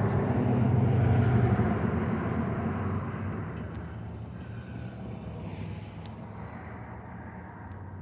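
A motor vehicle passing, its engine and tyre noise loud at first and fading away over the next few seconds.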